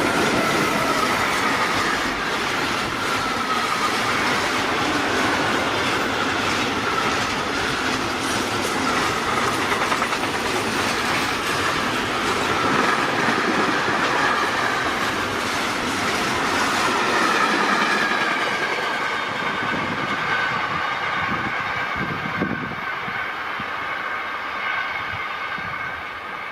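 A long train passing close by, with the wheels clicking over the rail joints and a steady high whine for the whole pass. It grows slightly quieter near the end.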